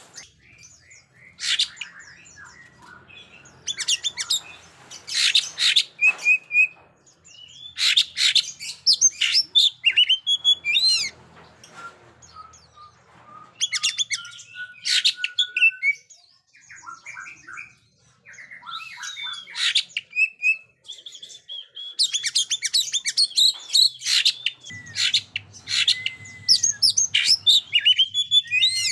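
Oriental magpie-robin singing a loud, varied song: phrases of clear whistles, slurred notes and rapid trills, broken by short pauses.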